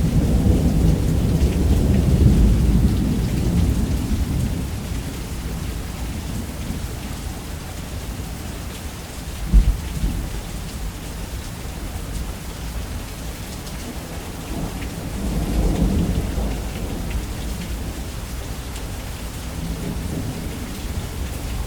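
Steady heavy rain with thunder: a deep rumble at the start that fades over a few seconds, a short sharp crack about nine and a half seconds in, and another rumble swelling and fading around two-thirds of the way through.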